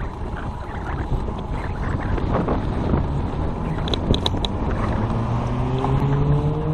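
Wind and road rumble on the microphone of a moving bicycle. From about four and a half seconds in, a bus engine comes up close, droning and rising steadily in pitch.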